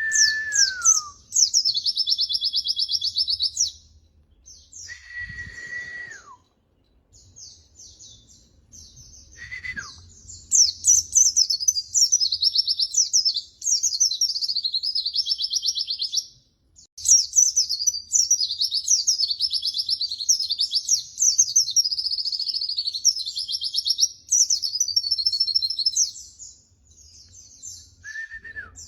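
White-eye (pleci) song: long runs of fast, high, chattering warbles and trills, with a brief break in the middle. A few lower, clear whistles slide down in pitch now and then.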